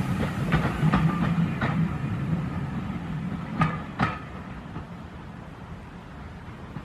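Steam-hauled passenger train running past and away, its rumble fading, with wheels clicking sharply over rail joints several times.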